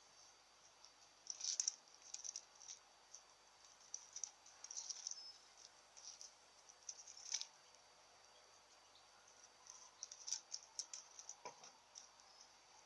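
Faint, irregular scratching and clicking of a kitten's claws on birch bark as it climbs, coming in scattered clusters with pauses between.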